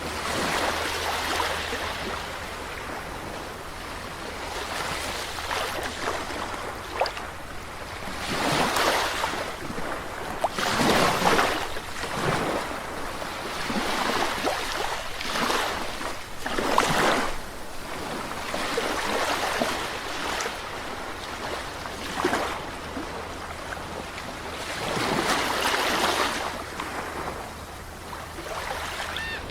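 Sea waves breaking and washing ashore, the surf swelling and fading irregularly every few seconds.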